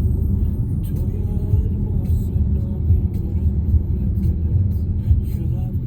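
A car driving, with a steady low rumble of engine and road noise and a few faint ticks.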